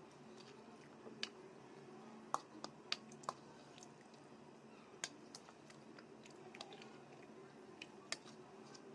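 Close-miked eating sounds: soft chewing with sharp, irregular mouth clicks and smacks while rice and curry are eaten. The clicks cluster in the first third and come singly about five and eight seconds in.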